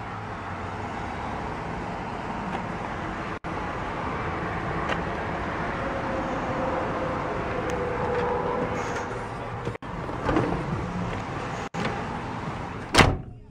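Electric power seat motors running in several separate stretches, a steady mechanical hum that shifts slightly in pitch, with one sharp knock near the end.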